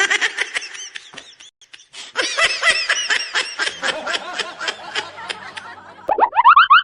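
High-pitched snickering laughter, a quick run of short repeated laughs. About six seconds in, a rising whistle-like glide begins.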